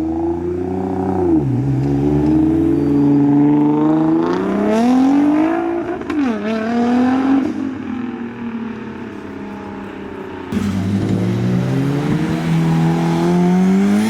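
Modified car engines revving and accelerating away, the engine note climbing and dropping several times. About ten seconds in, a louder engine note cuts in suddenly.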